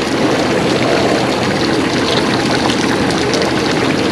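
Steady rush of water pouring out of a fish-stocking truck's discharge tube into the lake as the trout release begins.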